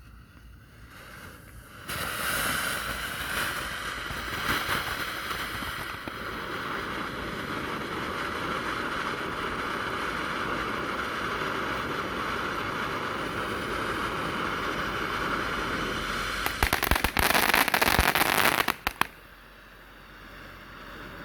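A King Kong consumer firework fountain catches about two seconds in and sprays with a steady hiss. Near the end it turns to a louder, dense crackling, then cuts off suddenly.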